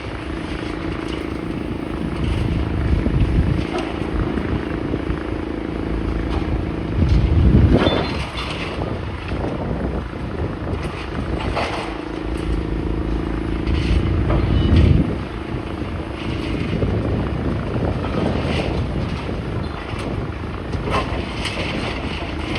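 Demolition machine's diesel engine running with a steady whine, revving up twice, with scattered clanks of debris.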